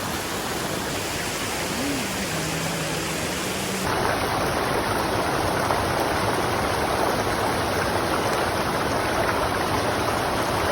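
Rushing river water, a steady noise that becomes louder and fuller about four seconds in.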